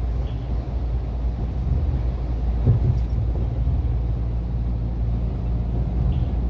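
Iveco gas truck running steadily on the road, a low rumble with one brief bump a little under three seconds in.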